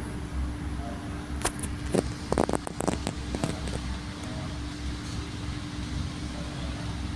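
Exhaust fan running with a steady hum and one constant tone. A quick run of sharp clicks or knocks sounds over it about two seconds in.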